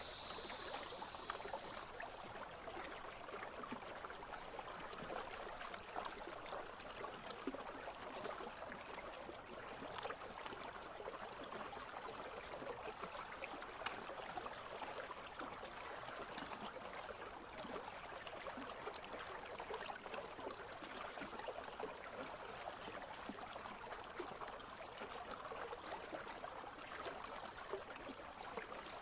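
A shallow country stream flowing steadily, an even babble of water with many small splashes and trickles. A faint cicada buzz fades out about a second in.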